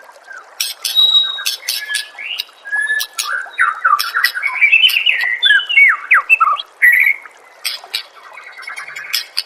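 White-rumped shama singing a fast, varied song: sharp clicking notes mixed with quick whistled slurs, busiest in the middle and thinning out near the end.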